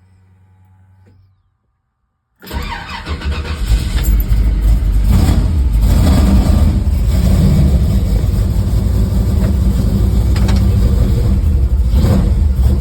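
1955 Chevrolet Cameo pickup's engine started from cold after sitting three to four weeks. It catches suddenly about two and a half seconds in, builds briefly, and then runs steadily, going right to idle.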